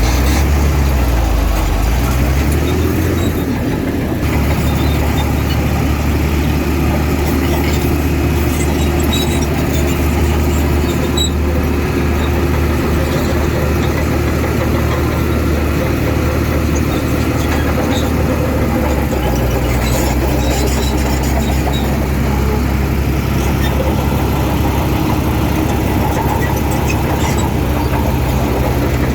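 Heavy diesel engine of an earthmoving machine running loud and steady, its pitch dipping and rising again in the first few seconds and changing once more about two-thirds of the way through.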